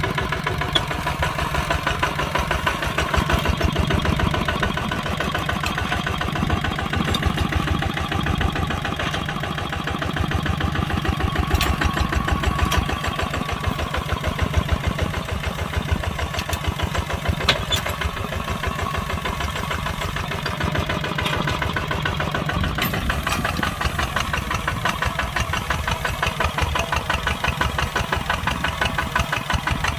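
Kubota tractor's diesel engine running steadily while plowing, its fast even firing pulse constant throughout, with a few sharp clicks over it.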